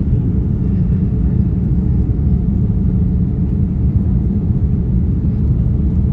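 Steady low rumble of a Boeing 787-9 airliner heard from inside the passenger cabin: engine and airflow noise with no separate events.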